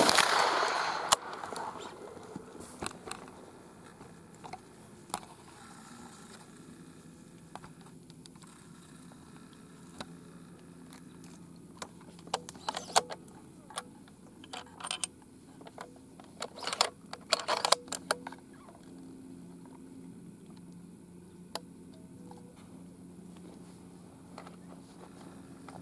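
A single rifle shot, sudden and loud, its report rolling away over about two seconds. Afterwards, scattered light clicks and rustles of handling.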